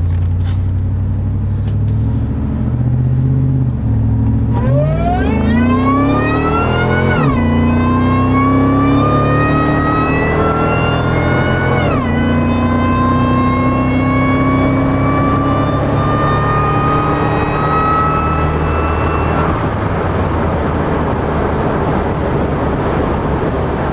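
Supercharged 5.4 L V8 of a 2002 Ford Lightning pickup accelerating hard from a stop: after a few seconds of low engine rumble, a high whine climbs with the revs, drops suddenly twice as the transmission upshifts, climbs slowly again, then fades as the throttle comes off. The truck is pulling strongly, though its boost gauge reads no boost, which the owner puts down to the gauge and how it is hooked up.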